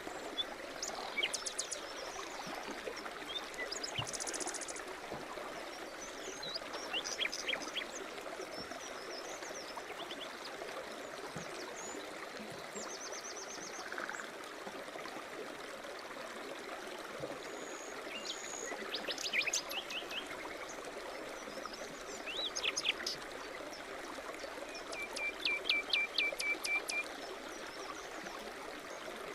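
A forest stream running and trickling steadily, with small songbirds chirping and trilling over it: many short high notes and quick trills, the loudest a rapid trill near the end.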